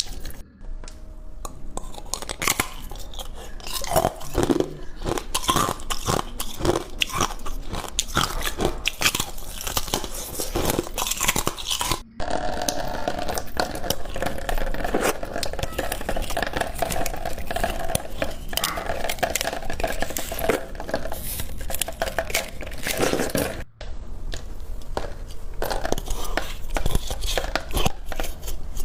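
Crunchy coloured ice being bitten and chewed close to the microphone: a dense, continuous run of sharp crunches, broken by two brief gaps, about twelve seconds in and about two-thirds of the way through.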